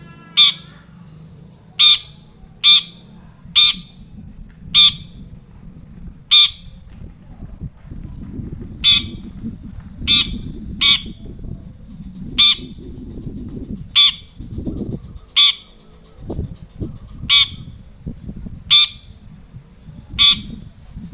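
Long-tailed shrike (cendet) giving about fifteen short, harsh calls, spaced a second or so apart, over a low rumbling background noise.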